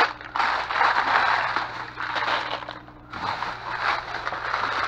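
Plastic bags and candy wrappers crinkling and rustling as they are handled, with a short lull about three seconds in. A steady low hum runs underneath.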